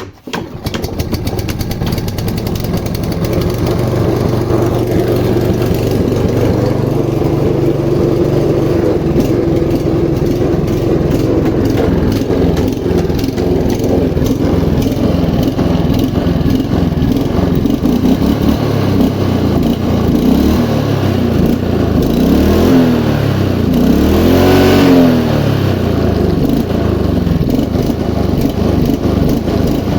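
Einhell Royal 46s petrol lawn mower engine running steadily at working speed. About two-thirds of the way through, its pitch rises and falls a few times.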